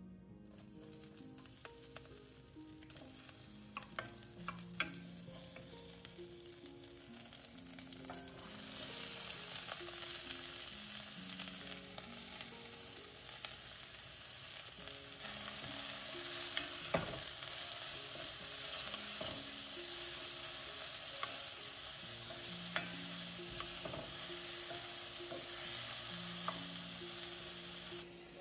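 Chopped jalapeño and onion sizzling in hot oil with whole fennel and cumin seeds in a stainless steel pan as they are stirred, with occasional sharp clicks of the utensil against the pan. The sizzle grows louder about eight seconds in.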